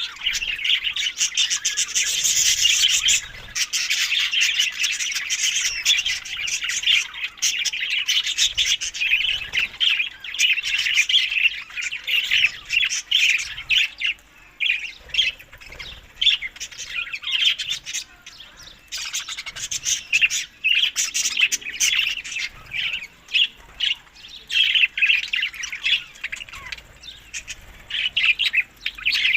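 Many budgerigars chirping and chattering in a dense, busy stream of short high calls. The calls thin out for a few seconds around the middle, then pick up again.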